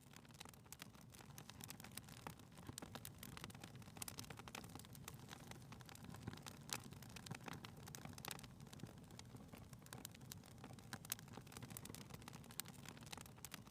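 Fireplace fire crackling faintly: irregular small pops and snaps over a low, steady rumble.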